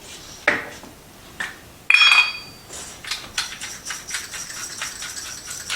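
A sharp, ringing clink of kitchenware about two seconds in, then a rapid, continuous rattling of salt and pepper being shaken or ground over asparagus in a skillet.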